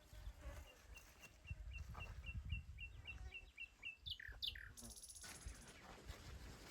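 Small songbird singing faintly: a run of short, high chirps that speeds up, ending in a few sweeping notes and a brief buzz.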